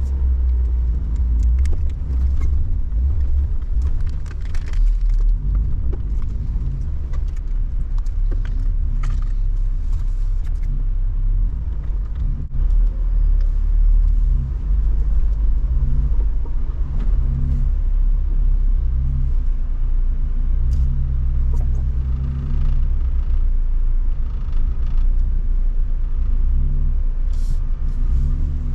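A Jeep's engine running under load at low speed, a steady deep rumble whose pitch shifts a little now and then, with scattered clicks and knocks as it crawls over avalanche snow.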